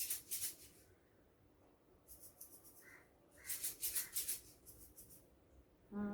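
Montessori sound cylinders being shaken by hand, their loose filling rattling in several short bursts of quick shakes with pauses between, as cylinders are compared to find a matching pair.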